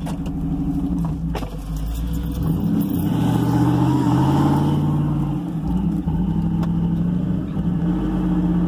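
Cadillac's small-block Chevy V8 engine running under load through deep mud, the revs climbing about three seconds in and easing off again around five seconds. The truck is struggling for traction in two-wheel drive.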